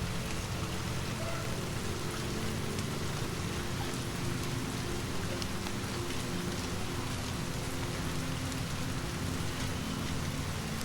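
Steady rain falling, an even hiss with scattered small ticks of drops. Faint low held tones sit underneath.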